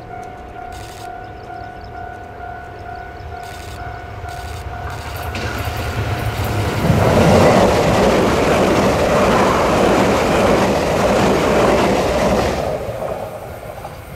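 A level-crossing warning signal sounds a steady tone. From about five seconds in, a Tze-Chiang express train rushes past over the crossing, loudest for about five seconds, then fades as it moves away.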